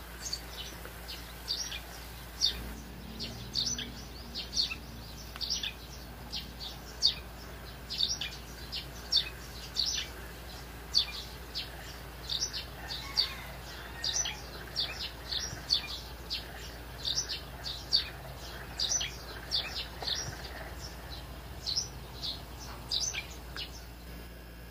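Small birds chirping: short, high, downward-sliding chirps, about two a second, irregularly spaced, over a faint steady hum.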